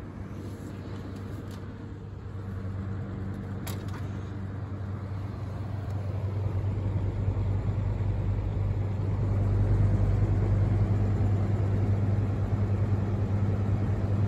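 Lasko 3733 box fan running on its low speed: a steady low motor hum with the rush of moving air, gradually growing louder. A faint click about four seconds in.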